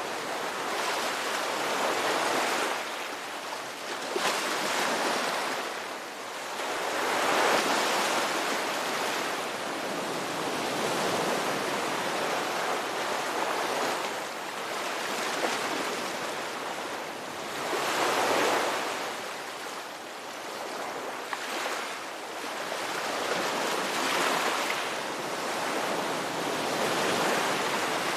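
Ocean waves breaking and washing on a shore, a steady hiss of surf that swells and fades every few seconds.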